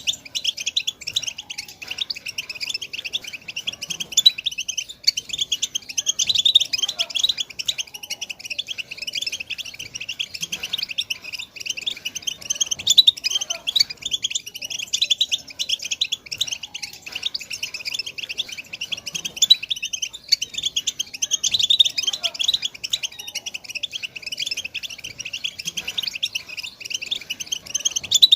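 European goldfinch twittering song: an unbroken stream of rapid, high chattering notes.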